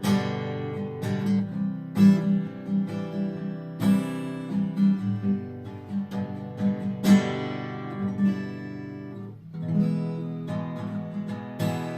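Multiscale orchestra-model cutaway acoustic guitar played as a solo, fingerpicked with strummed accents and a repeating bass-note pattern. Sharp accented chords come every couple of seconds; the playing dips briefly about three-quarters through, then resumes.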